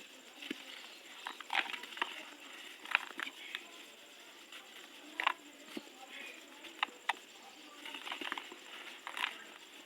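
Dry, dusty, crunchy material being crumbled in a tub: irregular crisp crunches and crackles, with a few louder snaps scattered through.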